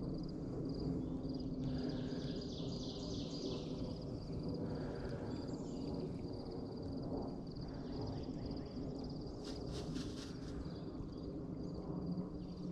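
Birds calling and chirping over a steady low background rush, with a short cluster of sharp clicks about nine to ten seconds in.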